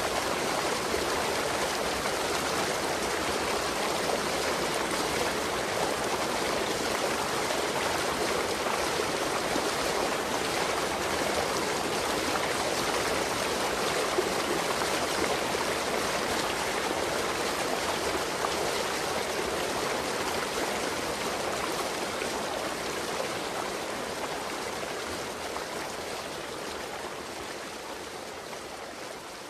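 Waterfall: a steady rush of falling water, growing quieter over the last several seconds.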